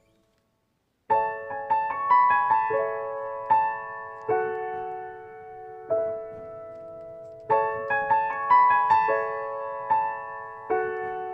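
Piano music. After about a second of silence, a melody of single struck notes and chords begins, each note dying away, and the phrase repeats.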